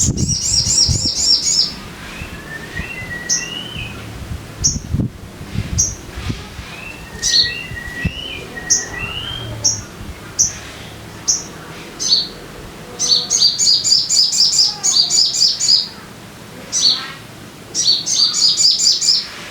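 Sogon bird singing: rapid high chattering trills of repeated notes, broken by single sharp chips about once a second and a few lower whistled notes. A few low thumps come in the first half.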